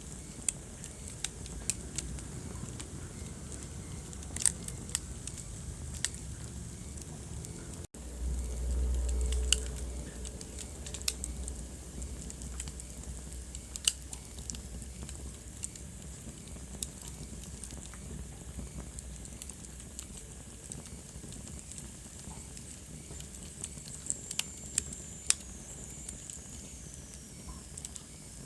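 Wood fire burning in a fireplace: a steady low rumble of flames with sharp, irregular crackles and pops. About eight seconds in the sound drops out for an instant, then the low rumble swells for a couple of seconds; near the end a faint high hiss falls in pitch.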